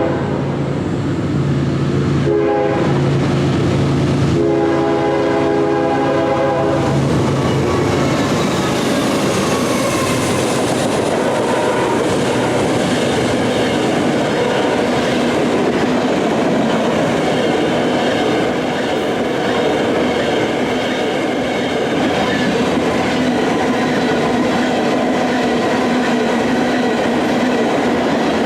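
Locomotive air horn blowing: a short blast about two seconds in and a longer one from about four and a half to seven seconds. Then the train rolls past steadily, a continuous rumble with the clickety-clack of wheels over the rail joints.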